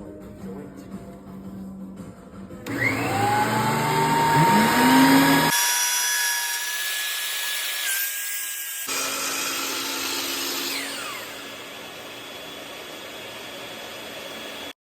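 Woodworking power tools running in a series of short clips. A motor spins up with a rising whine and runs steadily, then a later clip's whine winds down in pitch. The sound cuts off just before the end.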